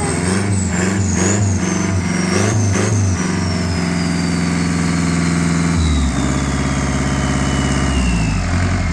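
Volvo Penta KAD32 marine diesel engine running on test, revved in a few quick bursts during the first three seconds, then running steadily with changes in speed near the end. A thin high whine falls slowly in pitch throughout.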